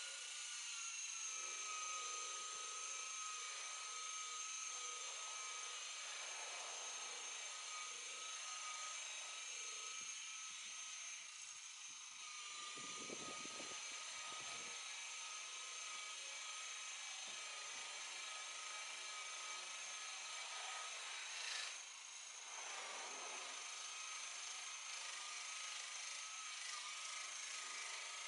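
Handheld electric power tool running steadily with a high motor whine, most likely a rotary buffer working a boat's gelcoat; the pitch holds with small changes in load and a brief surge a little past two-thirds through.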